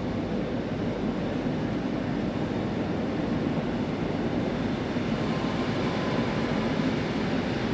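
A train running through the station with a steady, low rumble.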